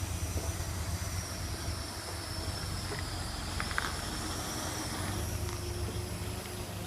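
An engine running steadily with a low hum and a faint high whine over it, with a few light clicks about halfway through.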